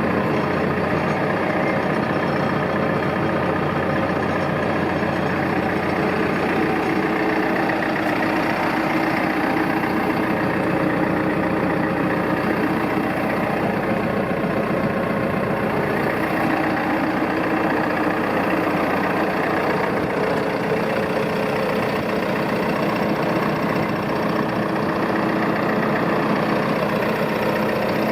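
Landini Powermondial tractor's diesel engine idling steadily.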